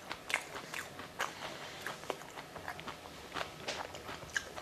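Close-up chewing of a mouthful of fuchka (pani puri): irregular wet mouth clicks and smacks, several a second.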